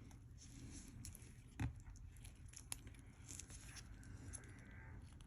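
Faint scattered clicks and taps of tiny watch screws being moved about on a work surface, with one louder knock about a second and a half in.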